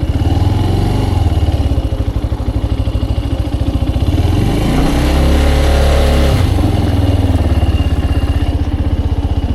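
Benelli BN125's single-cylinder 125cc four-stroke engine running on the move, its note swelling and falling back about halfway through as the rider works the throttle.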